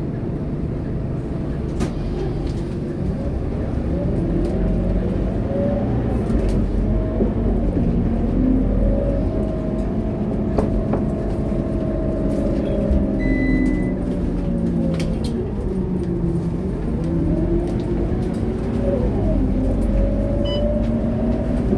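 Scania K230UB city bus's diesel engine pulling under load, heard inside the cabin: its pitch climbs, levels off, falls as the bus slows about two-thirds through, then climbs again as it pulls away.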